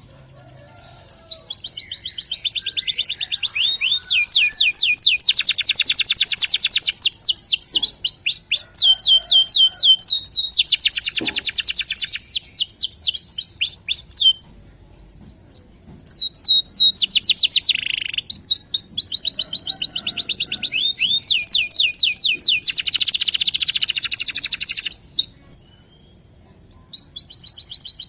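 Local canary singing long, loud phrases of very fast repeated notes and rolling trills. It breaks off briefly about halfway through and again near the end before starting a new phrase.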